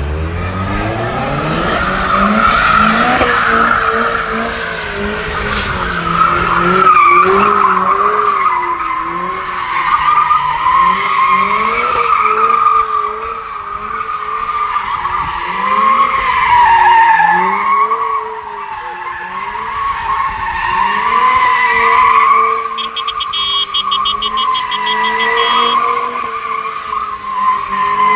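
Car engine held at high revs with its pitch rising and falling, over a continuous tyre squeal: a car doing a burnout.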